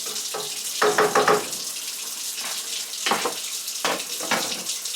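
Kitchen tap running steadily, with clinks and clatters of kitchenware: four quick clinks about a second in, then a few more about three and four seconds in.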